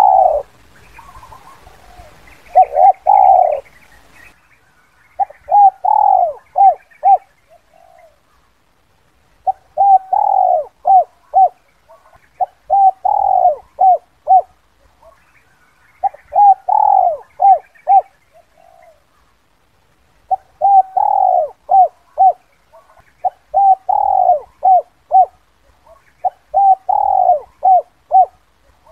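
Spotted dove cooing its 'kuk 2' call, a decoy call for luring wild doves. The bird repeats about eight phrases roughly every three seconds, each a longer coo followed by several short, quick notes, with faint chirps from another bird in the first few seconds.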